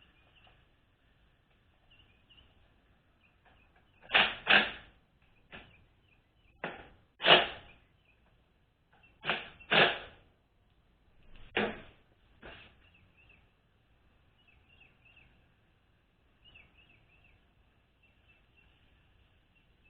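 Metal transmission parts and tools being handled on a workbench: about nine short knocks and clatters in the middle stretch, in pairs and singles, with faint high chirps between them.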